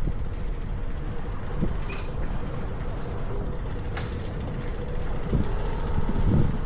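Strong wind buffeting the microphone in a low rumble over street noise, with a faint steady hum and a couple of light clicks.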